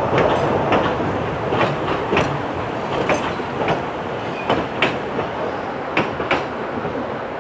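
Narrow-gauge train rolling along the line, its wheels clicking over the rail joints in irregular pairs over a steady rumbling rush, gradually getting a little quieter.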